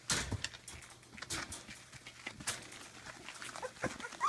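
Scattered knocks and scuffles of dogs moving about, with a short high squeak from one of the 18-day-old blue Weimaraner puppies near the end.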